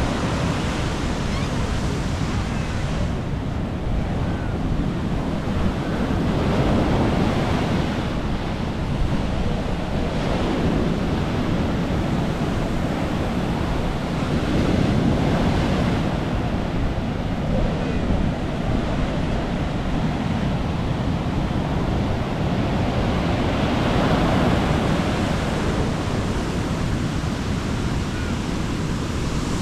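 Sea surf breaking and washing up on the beach, swelling and fading in waves every few seconds.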